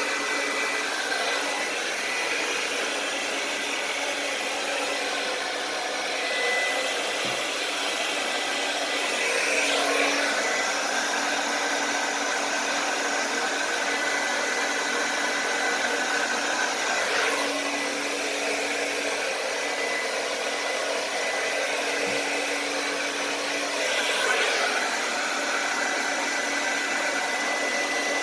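Hand-held hair dryer running steadily, with a faint whine and a few brief swells in loudness. It is blowing acrylic pour paint across a canvas in the blow dryer technique.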